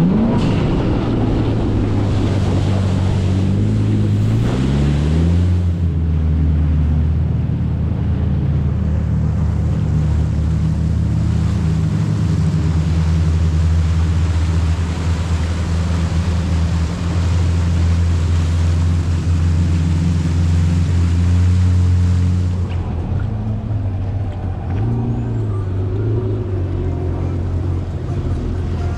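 Jet ski engine speeding up over the first few seconds, then running steadily at speed under a rush of wind and water. Near the end the throttle comes off and the engine drops to a lower, slower note.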